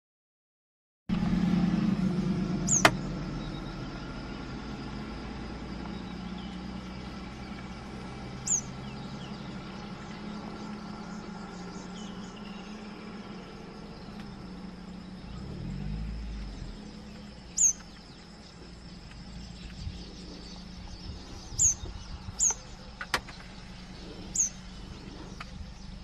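Southern red bishop giving brief, high-pitched, downslurred calls at irregular intervals, several close together near the end, over the steady low hum of an idling vehicle engine.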